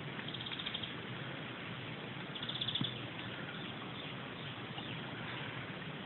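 Two short, high-pitched bird trills, one near the start and one a little before halfway, over a steady wash of flowing stream water.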